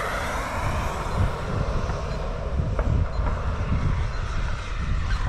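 Radio-controlled model airplane engine running, fading after a pass overhead, over a gusty low rumble.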